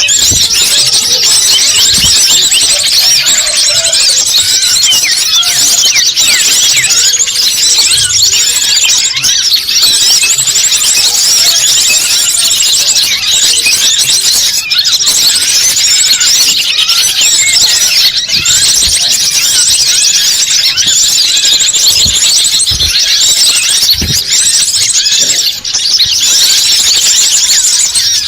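Loud, dense, unbroken chatter of many rapid high-pitched bird chirps and trills, a bird-lure (pikat) call recording of the kind played to attract small birds.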